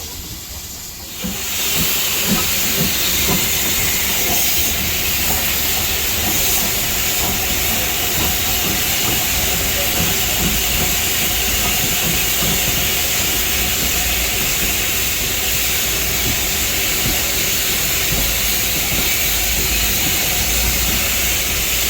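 A steam locomotive venting steam: a loud, steady hiss that starts suddenly about a second in and keeps up without a break, over a low rumble.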